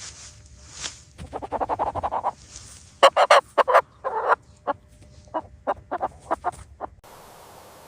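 Chickens clucking: a run of quick clucks, then several loud calls about three seconds in, then scattered clucks that stop abruptly shortly before the end.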